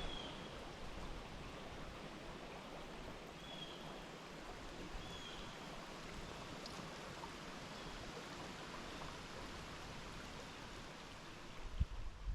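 Casselman River water flowing steadily around a wading angler, with a few short high chirps every couple of seconds and a low bump or two near the end.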